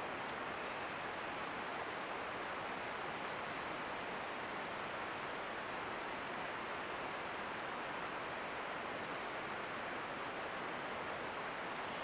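Steady, even hiss with a faint, high steady tone above it; nothing starts, stops or changes.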